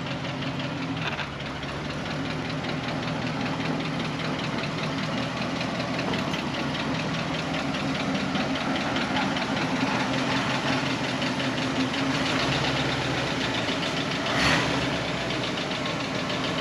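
Vehicle engine running steadily with an even, rhythmic clatter, and one short knock about fourteen seconds in.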